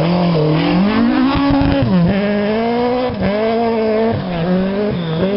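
Two-wheel-drive rally car engine revving hard on a stage, its pitch climbing and then dipping briefly several times, about a second apart, between pulls.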